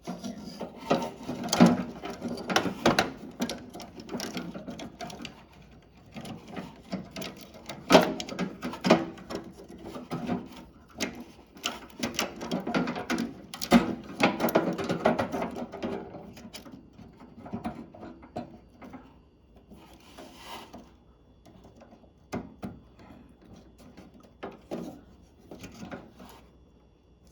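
Plastic clicking, scraping and knocking as a microwave door interlock switch and its plastic bracket are worked loose by hand. It is busiest in the first half and thins out to scattered clicks later.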